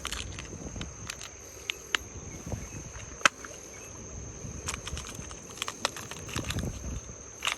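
An insect drones steadily on one high pitch, with scattered sharp clicks and irregular low thumps and rustles of handling close by.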